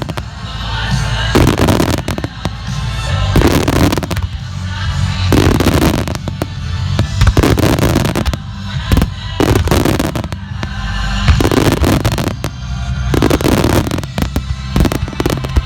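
Aerial fireworks bursting in a rapid series of sharp bangs and crackles, with many shells going off in clusters over loud music.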